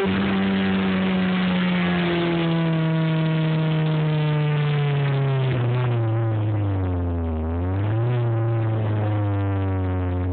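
Honda B16 four-cylinder engine with open headers, its revs falling off steadily for about seven seconds. The revs then pick up briefly near eight seconds and settle at a lower, nearly steady speed.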